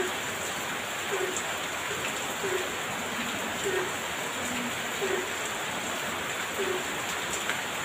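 Heavy rain falling steadily, with a short low note repeating about every second and a quarter.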